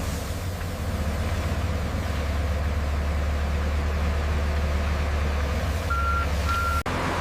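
Heavy diesel construction machinery engine running steadily with a deep hum, and two short beeps of a reversing alarm near the end.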